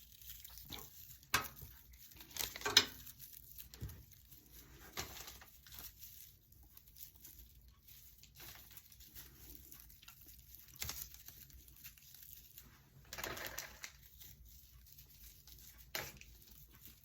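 Raffia being handled and cut with scissors: scattered rustles and snips, with a few louder clicks about two to three seconds in.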